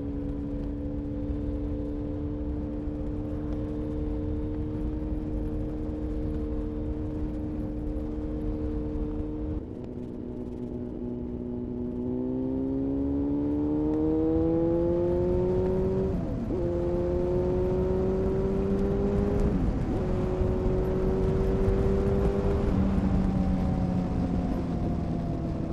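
2000 Honda CBR-929RR Fireblade's inline-four engine through an Erion full racing exhaust, on the move. It holds a steady note for about ten seconds, then eases off. It then climbs in pitch under acceleration, with two quick breaks for upshifts, and eases off again near the end.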